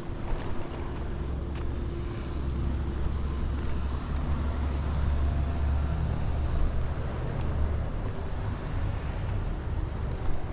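Wind rumbling over the microphone outdoors, swelling in the middle, over a steady hiss of open-air ambience.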